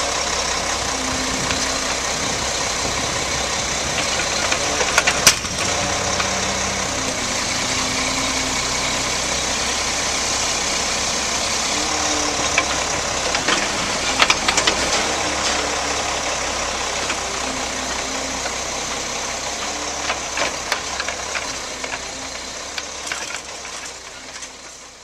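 Diesel engine of a 2007 Mack LE613 refuse truck idling steadily, with a few sharp clicks, fading away over the last few seconds.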